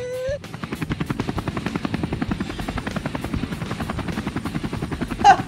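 Helicopter sound: rotor blades chopping in a fast, even beat, starting about half a second in, for a toy helicopter with a spinning rotor.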